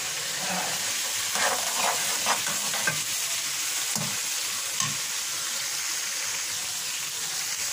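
Capsicum strips, cumin and cardamom sizzling steadily in hot oil in a metal kadai, being fried to light brown. A fork stirs them, scraping against the pan several times in the first five seconds.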